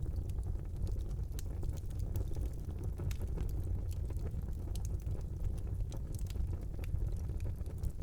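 Fire burning in a fireplace: a steady low rush of flames with frequent sharp crackles and pops scattered throughout.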